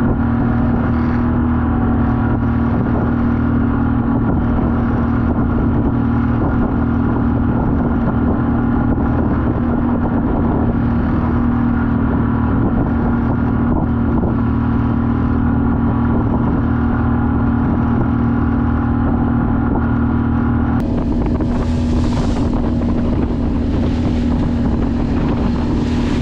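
Outboard motor running steadily under load, pushing a small sailboat head to wind into the waves at about 4 knots instead of its usual 5. Its sound shifts and turns brighter about 21 seconds in.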